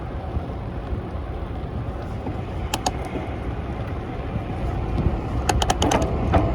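Steady low rumble of wind buffeting the microphone and passing city traffic, heard from a moving bicycle. There are a few sharp clicks or rattles about three seconds in and a quick cluster of them near the end.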